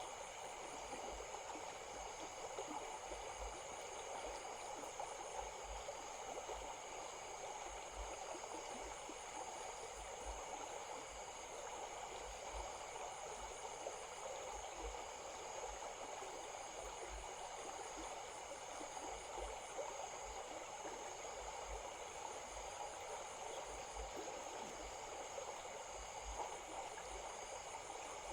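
A stream flowing steadily over stones, with a constant high-pitched whine and faint, quickly repeating high pulses over the water noise.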